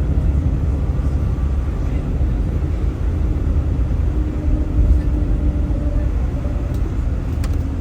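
Car driving along: a steady low rumble of road and engine noise heard inside the cabin.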